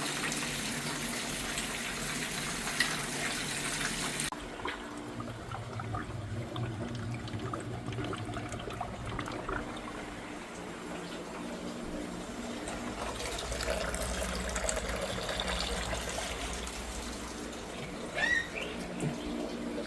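Water running with a bright hiss that cuts off abruptly about four seconds in, followed by a lower, steadier running sound with faint knocks and a brief rising tone near the end.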